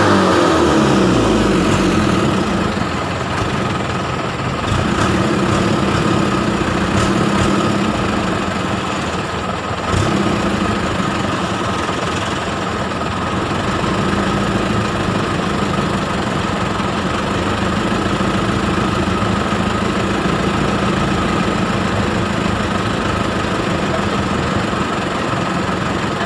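Truck engine running steadily at low revs, with a single knock about ten seconds in.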